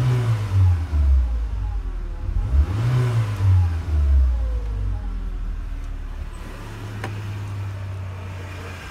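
Renault Espace IV's 2.0 turbo petrol four-cylinder (F4R) engine blipped twice, each rev rising and falling back, then idling steadily, heard from inside the car. A single sharp click about seven seconds in.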